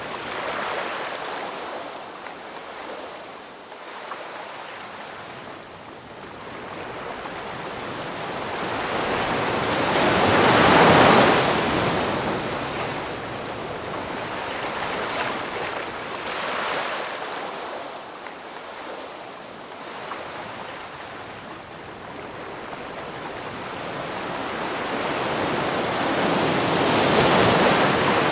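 Ocean surf: waves breaking and washing in, the rushing noise swelling and falling back. The biggest wave breaks about eleven seconds in, a smaller one a few seconds later and another large one near the end.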